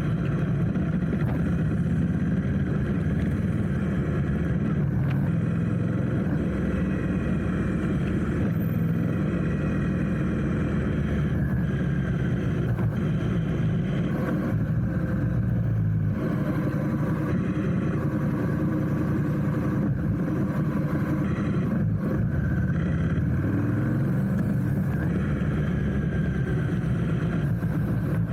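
Motorcycle engine running while riding in traffic: a steady low drone whose pitch drifts slowly up and down.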